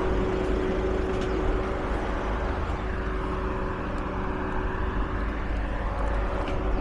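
A car driving, with a steady engine and road-tyre rumble and a constant drone.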